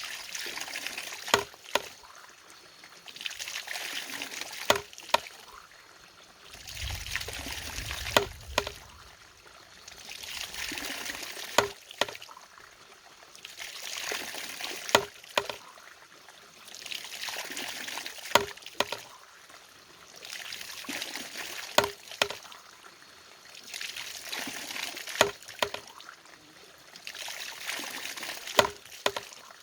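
A water-powered machine working in a steady cycle: water pours for about two seconds, then comes a pair of sharp knocks, repeating roughly every three and a half seconds. A brief low rumble comes in at about seven seconds.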